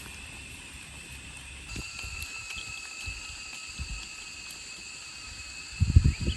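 Outdoor rural ambience: a steady high insect drone that grows fuller about two seconds in, with a few low thumps near the end.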